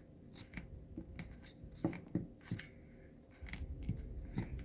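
Light handling noises: scattered soft clicks, taps and rustles of fabric being wrapped and pressed on by hand.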